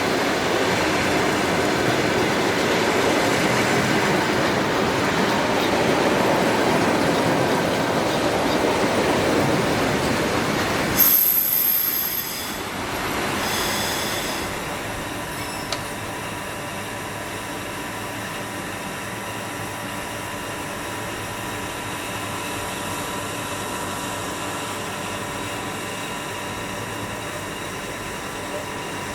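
A train running past on the rails, a loud steady rumble that drops off sharply about eleven seconds in, with a brief high-pitched wheel squeal at that point; afterwards a quieter steady hum with a faint tone.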